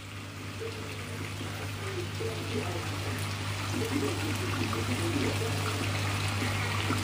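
Prawns in a thick sauce sizzling and bubbling in a wok, with small scattered pops, over a steady low hum.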